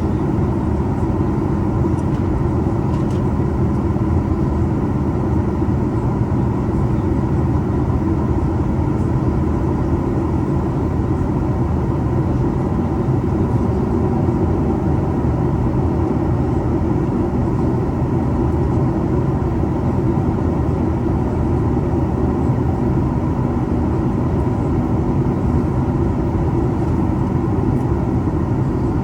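Steady in-flight cabin noise of a Boeing 737 MAX 8: the CFM LEAP-1B turbofans and rushing airflow make an even, low-heavy drone with a faint steady whine over it.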